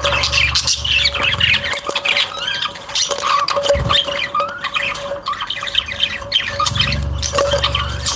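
Many small cage birds chirping and chattering continuously, with quick overlapping calls. A steady hum runs beneath.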